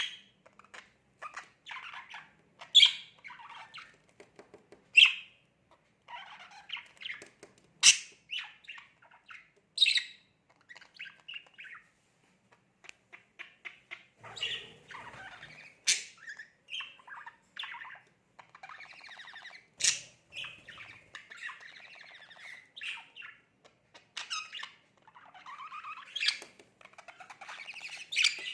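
Budgerigar chattering at its reflection: a long run of soft, scratchy warbling and short chirps, broken every few seconds by a sharp, loud call.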